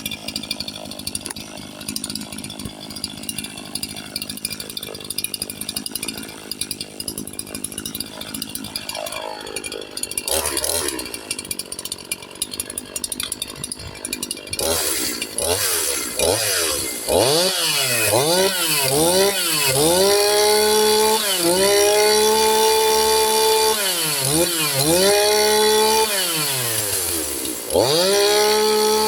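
Echo CS-4910 two-stroke chainsaw with its muffler restrictor removed. It runs unevenly at low speed for about fifteen seconds, then is revved up and down repeatedly, held near full throttle between revs.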